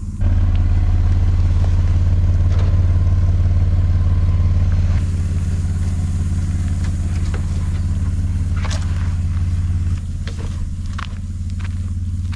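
Toyota LandCruiser's engine running low and steady as the 4WD crawls down a rocky dirt track, with a few sharp clicks from stones under the tyres. The hum drops in level about five seconds in and again about ten seconds in.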